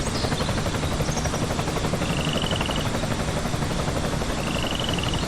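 Small motor of a toy RC construction vehicle running steadily with a fast, even flutter. Two short, faint high trills sound over it, about two seconds in and again near the end.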